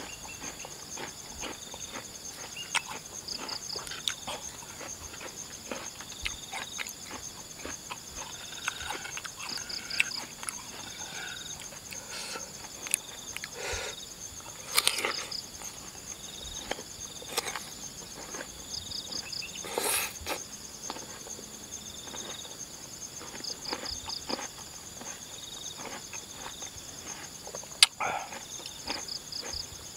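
Crisp chewing and crunching of raw jicama (bengkuang) pieces, many short crunches with a few louder bites. Behind it insects chirp steadily, with a short triple chirp coming back every four or five seconds.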